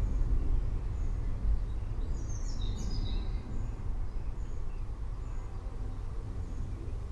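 Low rumble of distant thunder slowly fading, with birds chirping over it and a short flurry of chirps about two and a half seconds in.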